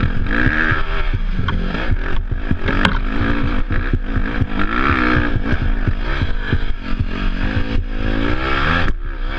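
Off-road dirt bike engine being ridden hard, its revs rising and falling again and again with throttle and gear changes. Frequent knocks and rattles from the bike jolting over rough ground run through it.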